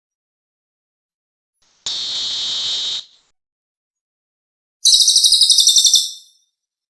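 Recorded calls of the cililin, played as a lure sound for catching birds: a buzzy call lasting about a second, then, near the end, a louder rapid trill of about ten notes a second.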